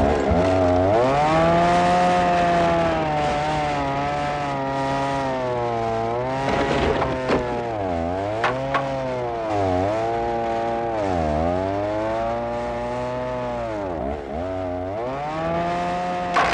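A motor running steadily, its pitch sagging and recovering several times as if briefly loaded, like a power tool cutting.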